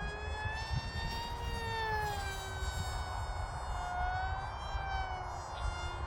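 HobbyKing Mini Sonic flying wing's electric motor and propeller whining in flight, the pitch drifting up and down as it manoeuvres, with wind rumbling on the microphone.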